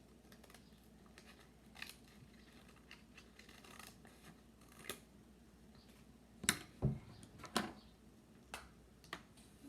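Scissors cutting paper: a handful of separate sharp snips, the loudest two a little past the middle.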